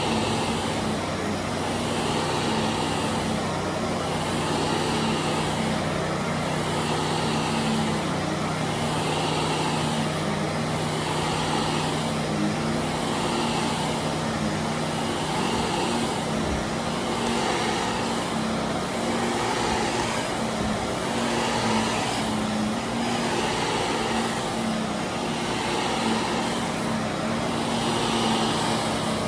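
Electric carpet-cleaning machine running steadily with a motor hum, its noise swelling and fading about every two seconds as it is worked back and forth over carpet.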